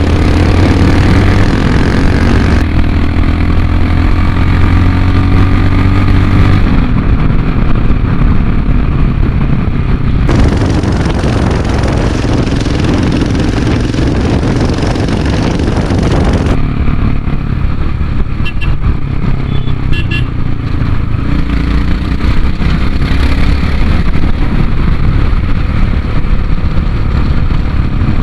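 Royal Enfield Himalayan's 411 cc single-cylinder engine, breathing through a Red Rooster aftermarket exhaust, pulling away in first gear and accelerating along the road. The engine pitch rises in the first few seconds.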